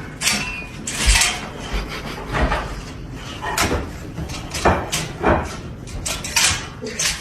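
Irregular clattering and knocking of hard objects, a dozen or so sharp hits at uneven intervals, the loudest about a second in.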